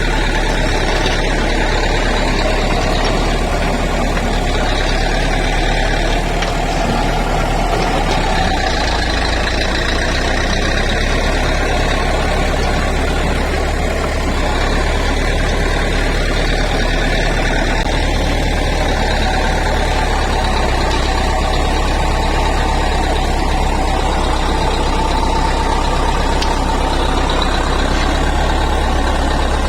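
Bulldozer's diesel engine running steadily, with a deep rumble.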